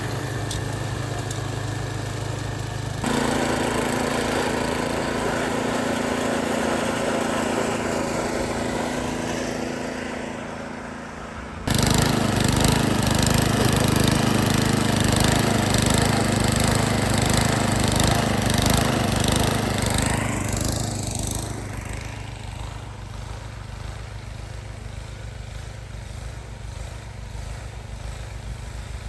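Small gas engine of a snow blower running steadily as it is pushed along the rails clearing snow. The sound shifts abruptly about three seconds in and again near twelve seconds, where it gets louder, then falls quieter about twenty-one seconds in.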